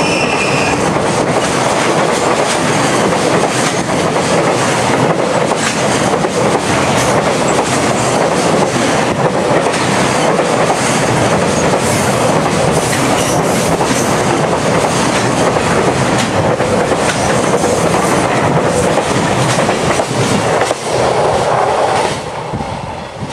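Container wagons of a freight train rolling past close by: a loud, steady rush with wheels clattering over the rail joints. The noise falls away near the end as the last wagon goes by.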